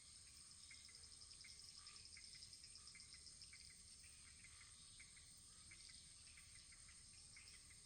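Wood fire crackling faintly: a soft steady hiss with many small, irregular pops, several a second.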